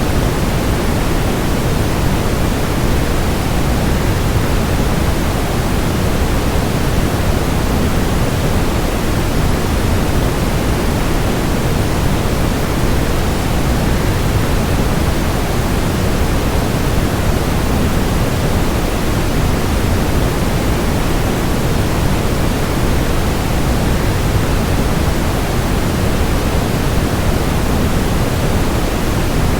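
Steady rushing noise of a waterfall, even and unchanging, heaviest in the deep end and thinning toward the highs.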